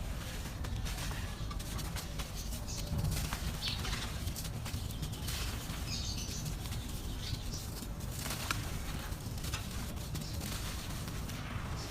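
Dry, grainy red dirt crumbling apart, a gritty crackle with scattered small snaps.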